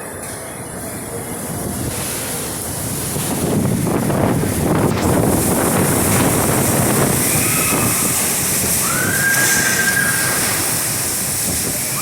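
Tropical-storm wind gusting hard: a rushing roar that builds about three seconds in and stays strong, with a couple of brief high whistling tones near the middle.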